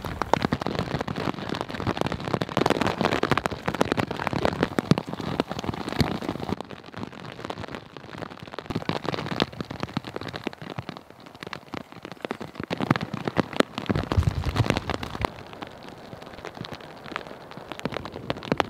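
Steady rain falling, a dense stream of small drop impacts on the rain jacket and ground.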